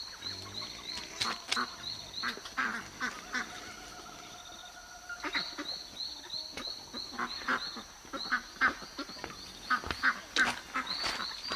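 Animal calls: runs of short, high, repeated chirps, about four a second, over a steady high tone, with scattered clicks and lower bursts.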